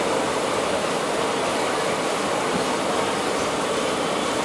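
Steady, even rushing noise of a passenger train rolling slowly along a station platform, heard from inside the coach through an open window, with no separate clicks or knocks.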